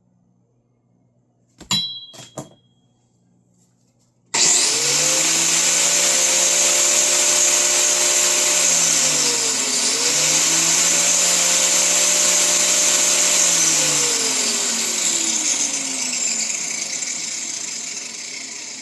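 A few clicks, then an electric power tool switches on about four seconds in and runs loudly and steadily with a strong hiss. Its speed dips and recovers once midway, then it is switched off and winds down slowly near the end.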